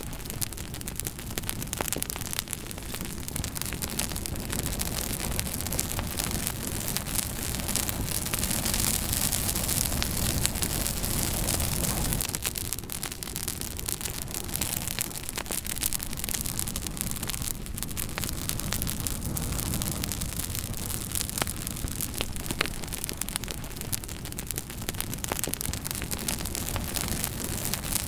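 Wood fire burning in a fireplace: a steady hiss with frequent small, sharp crackles and pops scattered throughout.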